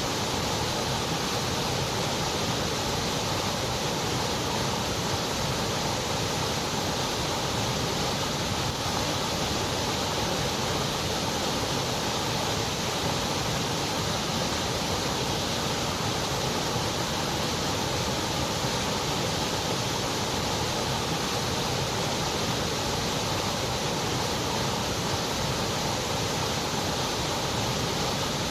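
Continuous white noise: an even, steady hiss with no change in level or pitch.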